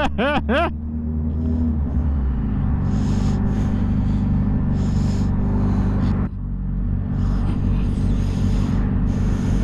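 Motorcycle engine running steadily while riding, with a brief drop in sound about six seconds in, like a gear change.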